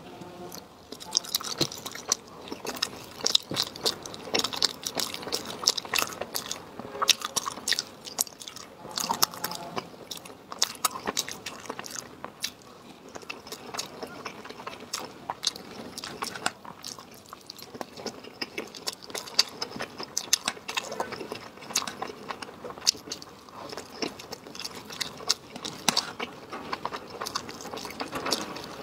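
A person biting and chewing crunchy food close to the microphone: many sharp, crisp crunches in quick irregular clusters.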